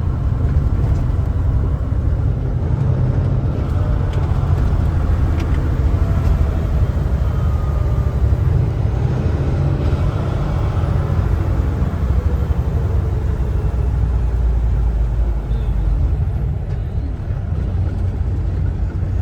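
Kenworth T680 semi truck cruising on the highway: a steady low rumble of engine and road noise.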